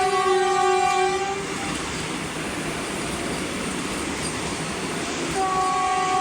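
Vande Bharat Express trainset sounding its horn as it passes through the station at speed without stopping. The horn breaks off about a second and a half in, leaving the rushing noise of the passing train, and sounds again near the end.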